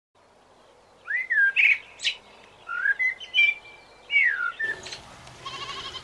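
A songbird singing: several clear whistled phrases that slide up and down in pitch, with a short trill among them. Near the end the song gives way abruptly to a steady background hiss.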